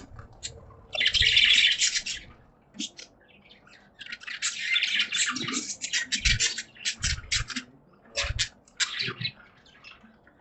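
Budgerigars chirping rapidly in busy, overlapping bursts: a loud flurry about a second in, a longer run of chatter in the middle, and scattered single chirps near the end. A few short low thumps come in between the chirps.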